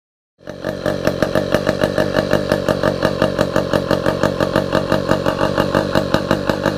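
An engine idling, starting about half a second in after a moment of dead silence, with an even pulsing beat of about six or seven pulses a second.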